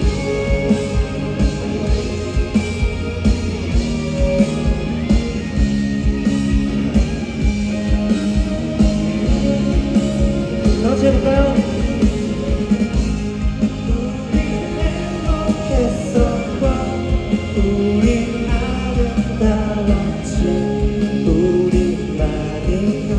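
Live rock band playing at full volume: electric guitars over bass and drums with a steady beat, with some singing over the top.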